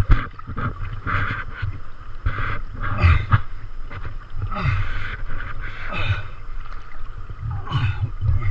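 Water splashing from kayak paddling, in irregular surges about once a second, over a low rumble of wind on the microphone.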